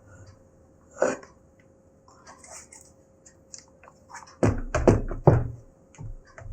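Handling knocks and clicks on a laptop being set up: a knock about a second in, a quick run of three or four heavier thumps past the middle, and a sharp knock at the end, with small clicks between.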